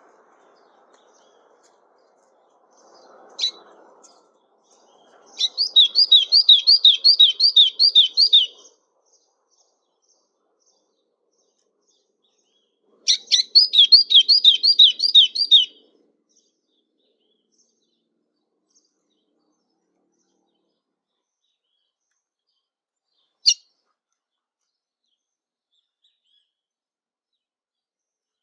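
A songbird sings two phrases of rapid repeated whistled notes, each lasting about three seconds, with a pause of several seconds between them. Single short call notes come before the first phrase and near the end.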